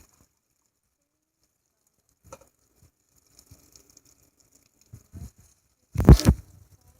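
Handling of a container of frozen homemade slime: a few faint taps and clicks, then one loud short knock or clatter about six seconds in.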